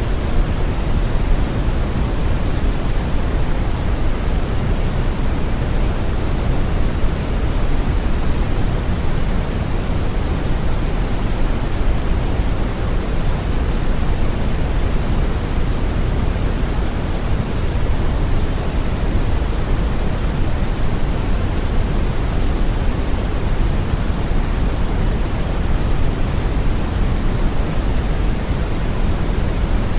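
Steady brown noise: a deep, even rumbling hiss with most of its weight in the low end, unchanging throughout.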